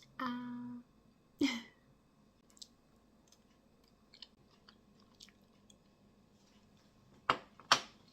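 A person chewing a mouthful of kimchi jjigae and rice, with faint wet mouth sounds. There is a short hum of the eater's voice right at the start, and two sharp clicks near the end.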